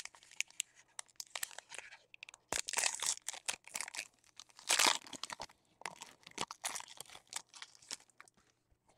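Foil wrapper of a trading-card pack being crinkled and torn open and the cards handled, a run of crackles with two louder tearing rasps, one about two and a half seconds in and one about five seconds in.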